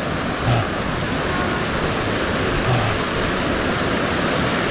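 Fast-flowing creek swollen with rain runoff, a steady loud rushing of water.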